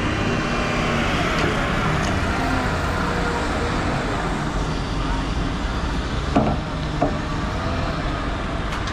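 Engine of a car-handling forklift running steadily under load, with two short knocks near the end.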